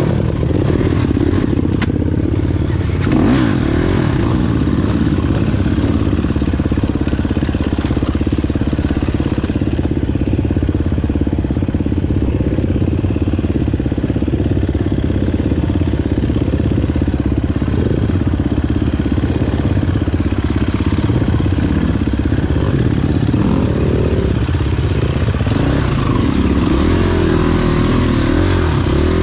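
Dirt bike engine running steadily, with brief rises and falls in revs a few times.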